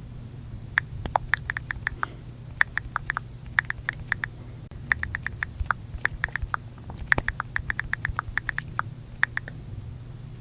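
iPhone on-screen keyboard click sounds as someone types: short sharp ticks in quick runs of several taps each, broken by brief pauses, over a low steady hum.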